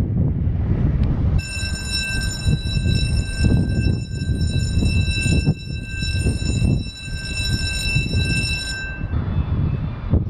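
Diesel engine of a passing inland cargo barge: a heavy low rumble with wind on the microphone. Over it a steady high-pitched whistling whine comes in about a second and a half in and stops about a second before the end.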